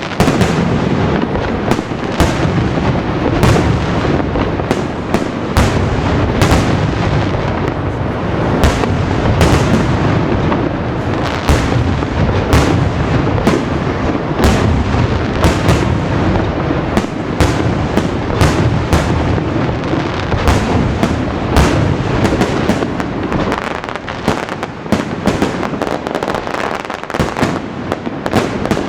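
A large aerial fireworks display: shells bursting in rapid succession, several loud bangs a second over a continuous rumble of launches and echoing reports, easing off a little near the end.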